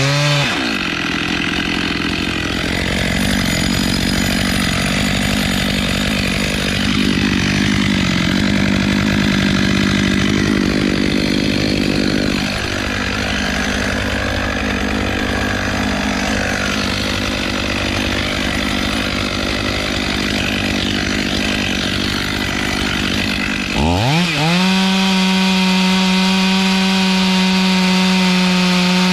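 Gas chainsaw cutting through beech wood, its engine note wavering under load. Near the end it comes free of the cut and runs at steady full revs.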